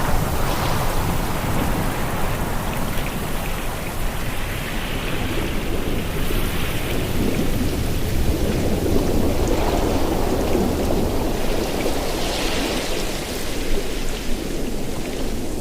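Ocean waves breaking and washing ashore over a steady low rumble, rising and falling in several surges.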